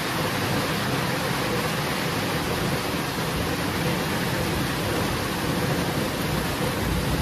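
Heavy rain falling steadily, a dense even hiss, with a low rumble of thunder starting to build near the end.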